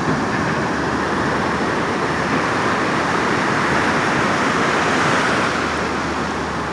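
Surf from a rough, stormy sea breaking on a beach: a steady rush of water that swells to its loudest about five seconds in, then eases.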